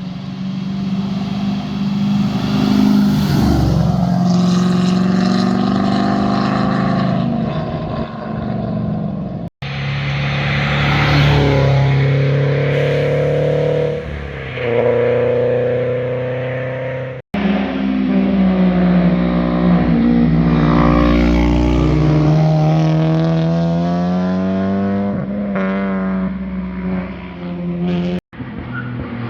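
A series of performance cars accelerating hard and passing by, each engine note climbing, dropping back and climbing again as it pulls through the gears. The sound cuts abruptly to a different car three times.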